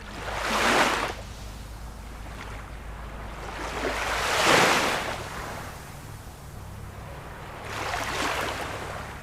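Ocean waves breaking: three surges of surf, each swelling and fading over a second or two, about three and a half seconds apart, over a low steady rumble.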